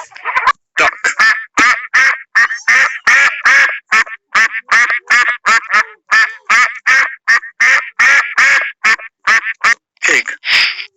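Duck quacking in a long rapid series of calls, about three a second, with a noisier call near the end.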